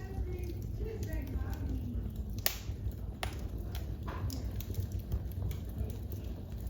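Wood fire crackling in a fireplace, with a steady low rumble and sharp pops about two and a half, three and four seconds in. About a second in comes a short call that falls in pitch.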